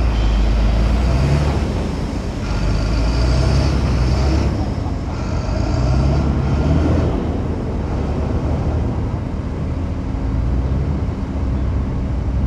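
Heavy diesel engine of earth-moving machinery running, its note swelling and easing several times as it works.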